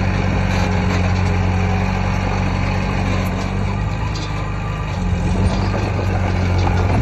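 Heavy diesel engine of earthmoving equipment running steadily with a low, even hum.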